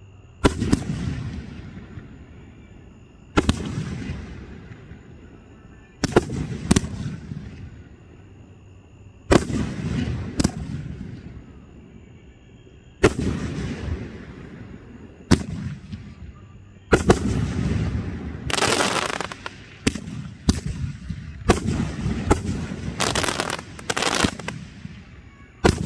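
Aerial firework shells bursting: single loud booms about every three seconds, each followed by a rolling echo that dies away. In the second half the bursts come in quick succession with crackling, a barrage of shells.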